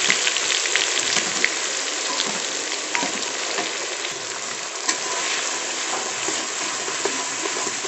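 Onion and green-chilli paste sizzling and crackling as it goes into hot mustard and refined oil in a metal kadai. A metal spatula scrapes the paste off the bowl and stirs it, giving a few sharp clicks against the metal, clearest about 3 and 5 seconds in.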